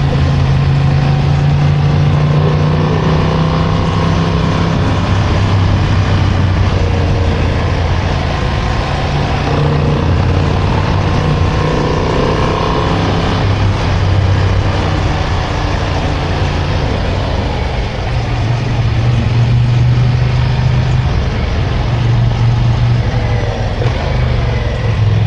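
Motorcycle engine running under way on a winding road, its pitch rising and falling with the throttle through the bends, with wind noise over it.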